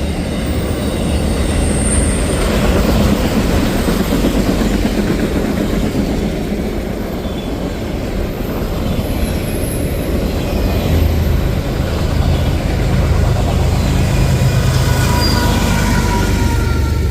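Freight train rolling past, a steady rumble of cars and wheels on the rails, with faint thin squeals from the wheels near the end.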